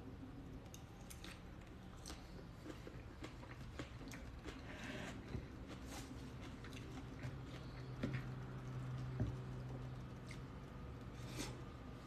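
Faint chewing of a mouthful of bean salad, with scattered light clicks and scrapes of a metal fork in a bamboo bowl.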